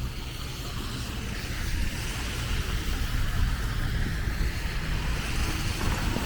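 Street traffic: a motor vehicle's low rumble with a hiss above it, growing slowly louder as it approaches.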